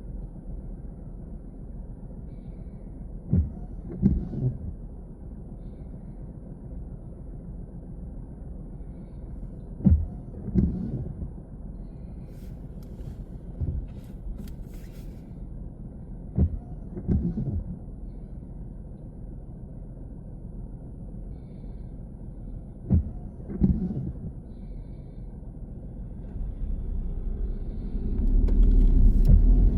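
A car driving, heard from inside the cabin: a steady low rumble, with pairs of short thumps about every six or seven seconds. The rumble grows louder near the end.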